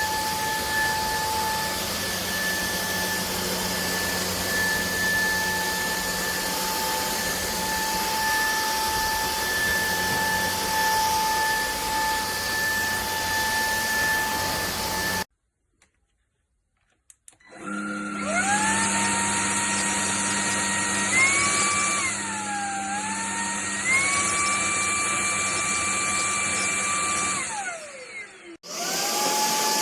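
Cordless stick vacuum's motor whining steadily, then cut off. After a short silence it spins back up, its pitch stepping up, dipping and stepping up again as the speed setting changes, then winds down to a stop and starts again near the end.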